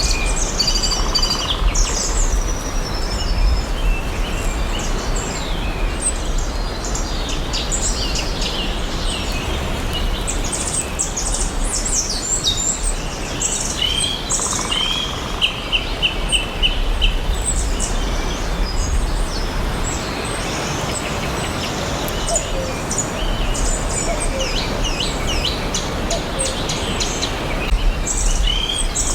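Several forest songbirds chirping and singing, their calls overlapping: short high chirps and quick runs of repeated notes, over a steady low background rumble.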